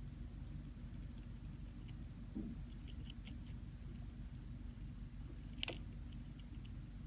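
A hamster nibbling cabbage: faint, scattered crisp clicks over a steady low hum, with one sharper click a little before the end.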